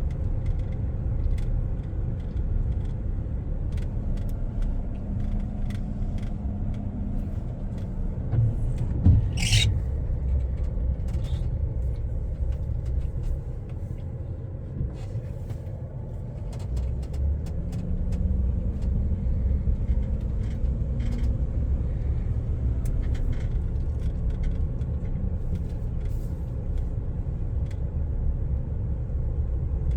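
Pickup truck driving, heard from inside the cab: a steady low engine and road rumble, with the engine note rising twice as it picks up speed. A brief sharp high noise with a thump about nine seconds in.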